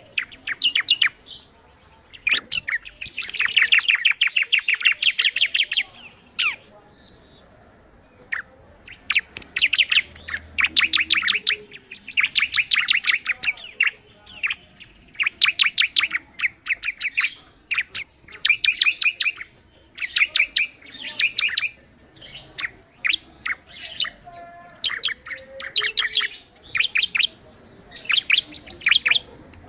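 A ciblek (prinia) singing continuously. It gives phrase after phrase of rapid, sharp trilled notes, each burst lasting a second or two with short pauses between.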